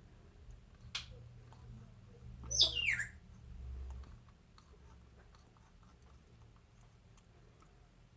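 African grey parrot giving one short whistle that falls in pitch, about two and a half seconds in, with a sharp click about a second in and faint scattered clicks.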